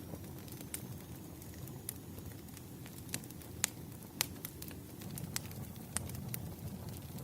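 Campfire of burning wood: a low, steady rustle of flames with scattered sharp pops and crackles, a couple of louder snaps around the middle.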